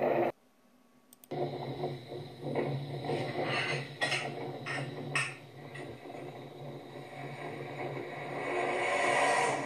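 Car engines running steadily, heard through a playback speaker, with several short sharp bursts in the middle and growing louder near the end as the cars pull away. The sound cuts out for about a second just after the start.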